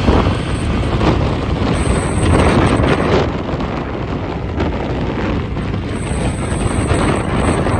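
Motorbike on the move: steady engine and road rumble with wind buffeting the microphone.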